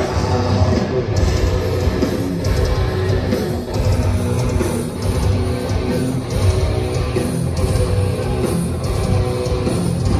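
Metal band playing live: distorted electric guitars, bass and drums, loud and continuous.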